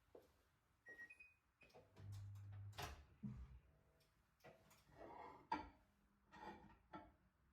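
A short two-tone electronic beep from an appliance's buttons about a second in, then quiet clicks, knocks and rustling of things being handled, with a brief low hum about two seconds in.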